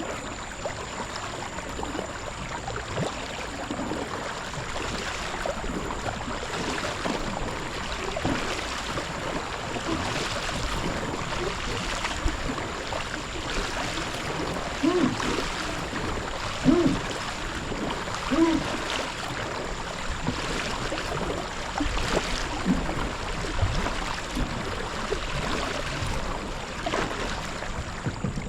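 Kayak paddle dipping and pulling through the water, with splashing and dripping that comes in strokes about every two seconds. A few short low-pitched sounds near the middle stand out above the water.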